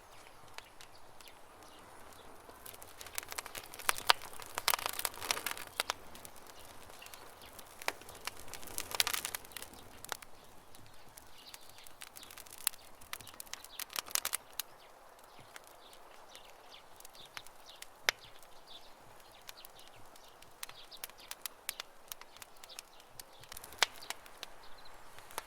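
Wood campfire crackling: scattered sharp snaps and pops, coming in a few dense clusters between sparser single cracks.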